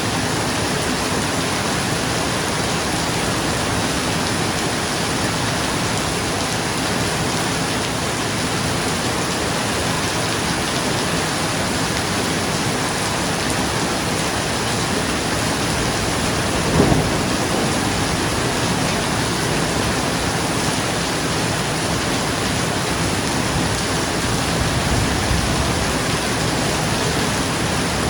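Steady heavy rain on a roof, with one sharp crack of thunder a little past halfway and a low rumble of thunder near the end.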